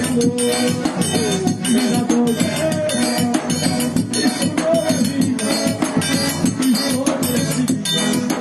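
A live forró band playing a São João tune: an accordion melody over a steady, quick beat of shaken and struck percussion.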